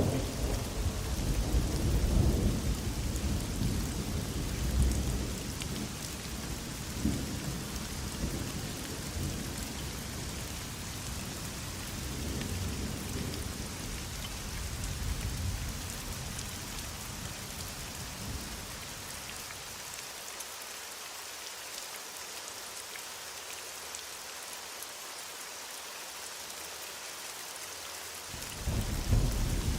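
Heavy rain falling steadily, with rolling thunder rumbling low through the first half. The thunder dies away about two-thirds of the way in, leaving only the rain's hiss, and a new roll of thunder starts near the end.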